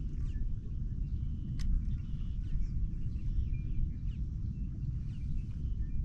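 Open-air marsh ambience: a steady low rumble with faint, scattered bird chirps and a single sharp click about a second and a half in.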